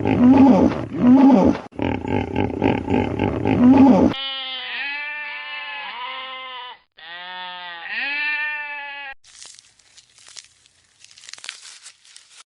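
A loud, rough animal call lasting about four seconds cuts to a bleating livestock animal. It gives two long quavering bleats, the pitch wobbling up and down rapidly. After that come faint outdoor chirps and ticks.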